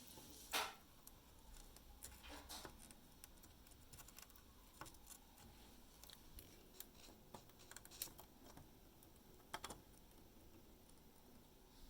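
Faint, scattered small clicks and light taps, irregularly spaced, of small parts and tools being handled.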